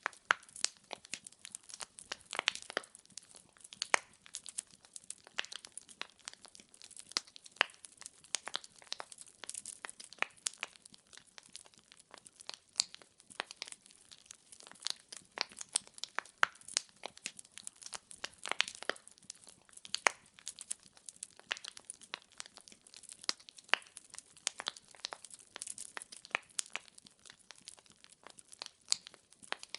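Burning firewood crackling: a dense, irregular run of small pops and snaps, with now and then a sharper, louder pop.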